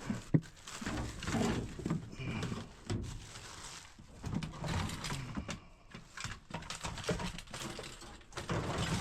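Rummaging through plumbing parts and tools: irregular knocks, clinks and rattles of handled metal fittings, with low wordless humming now and then.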